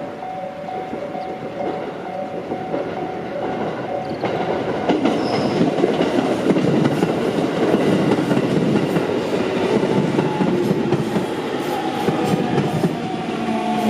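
Level-crossing alarm ringing in a repeating two-tone pattern, then an electric train passing close by, its wheels clacking over the rail joints, the noise building from about four seconds in and staying loud.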